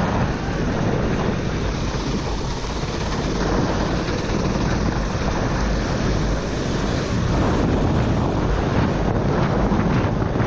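A four-stroke racing kart running at speed on a rain-soaked track, heard from on board as a steady loud rush: wind buffeting the microphone and water spray from the tyres, with the engine underneath.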